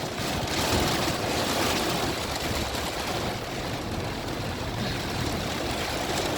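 Heavy rain pouring down on a van, a steady rushing noise.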